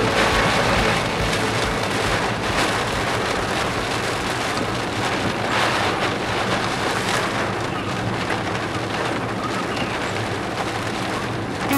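Heavy typhoon rain and wind hitting a moving car, heard from inside the cabin as a dense, steady rush with small surges.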